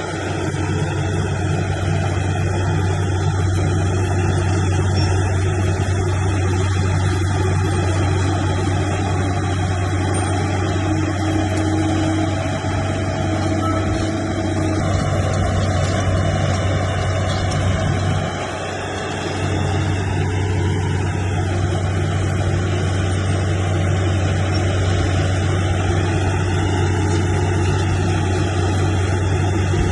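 Bulldozer's diesel engine running steadily with a deep hum, easing off briefly about eighteen seconds in before picking up again.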